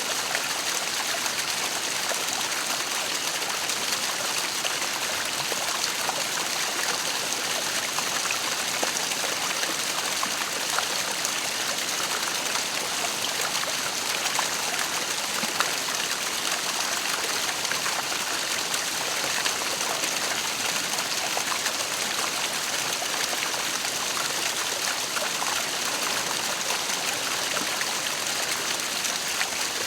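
Waterfall: a steady rush of falling water, with many small splashes and drips throughout.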